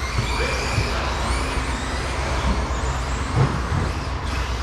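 Electric RC stadium trucks racing, their 13.5-turn brushless motors whining and gliding up and down in pitch over a steady rumble of track noise.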